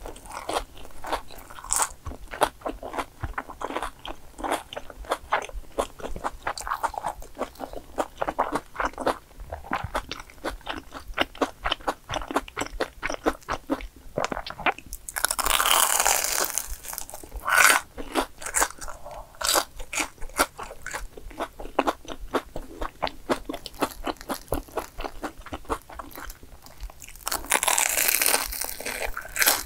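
Close-up eating sounds of crispy breadcrumb-coated fried cheese balls: fast, crunchy chewing throughout, with two louder, longer crunching bites, one about halfway through and one near the end.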